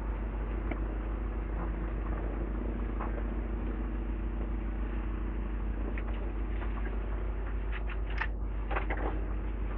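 Diesel engine of a demolition excavator running steadily, with a few short knocks and clatters of debris or metal about six and eight seconds in.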